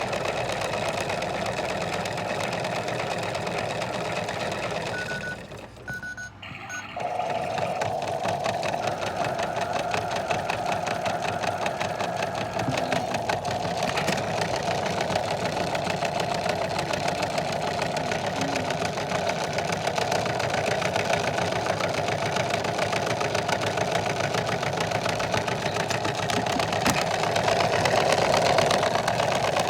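Washing machine running, its motor and drum making a steady mechanical whir with fast, even ticking. About five seconds in it briefly drops off while a few short electronic beeps sound, then it runs on steadily.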